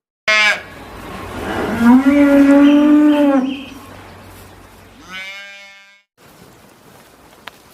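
A cow mooing: a short sharp call, then one long loud moo held for about two seconds, and a shorter moo that falls in pitch about five seconds in.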